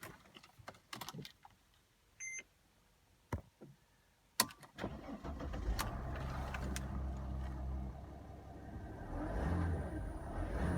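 A few clicks and a short beep, then the 2003 Mercedes-Benz E-Class W211's engine starts a little under halfway through and runs at a steady idle, getting louder for a moment near the end.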